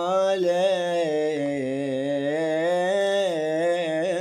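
A voice singing one long, drawn-out note of an Arabic sung poem, its pitch wavering slowly up and down, over a steady low tone.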